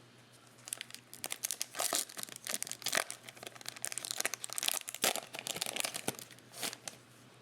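Foil wrapper of a trading card pack crinkling and tearing as it is opened and handled: a quick run of sharp crackles.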